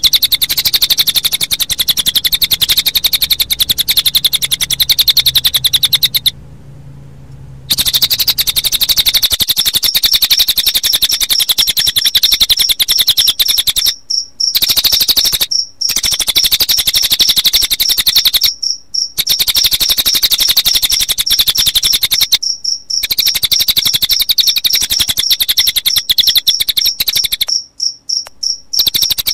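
Recorded song of a cililin bird combined with cricket chirping: a rapid, unbroken stream of high chirps. About a third of the way in a steady high cricket-like trill joins in. The stream is broken by a few short gaps, the longest about six seconds in.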